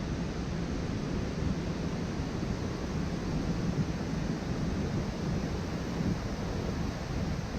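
Steady road and wind noise of a car driving along, an even rumble with no breaks.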